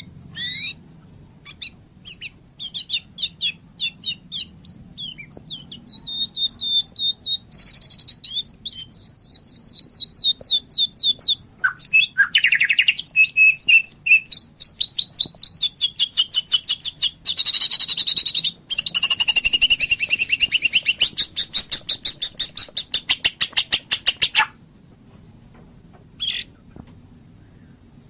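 White-rumped shama singing: a few short whistled phrases, then a long, loud run of fast repeated notes and trills that stops abruptly about three quarters of the way through, followed by one brief call.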